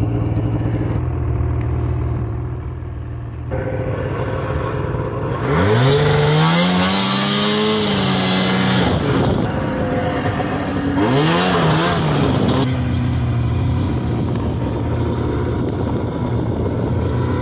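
Snowmobile engine running, revving up hard about five seconds in and holding for a few seconds before easing off, then revving up again briefly about eleven seconds in.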